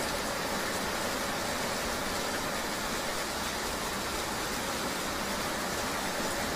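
Steady rainy-day riding ambience: an even hiss of rain and road noise with a faint, constant engine hum underneath, unchanging throughout.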